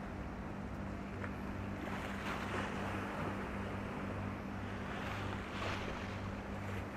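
High-speed passenger ferry passing under power: a steady low engine drone with a slow pulsing beat. Over it is a wash of water and wind noise that swells twice.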